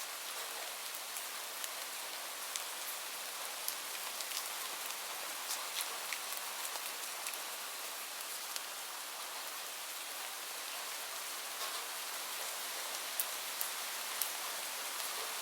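Steady rainfall: an even hiss with many sharp, scattered drop ticks on a hard surface.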